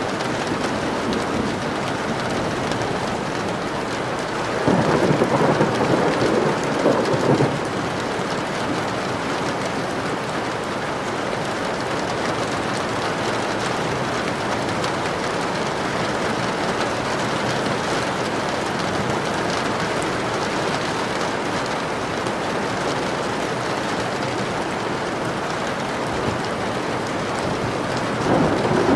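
Steady rain falling, with a louder rumble of thunder about five seconds in that lasts a couple of seconds, and another starting near the end.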